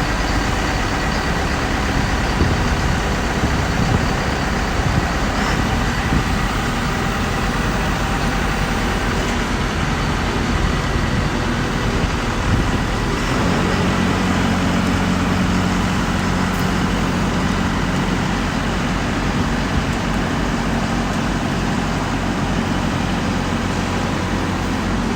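Diesel engine of a hydraulic solar pile driver running steadily. About halfway through, its sound changes to a steadier low hum with a clear pitch.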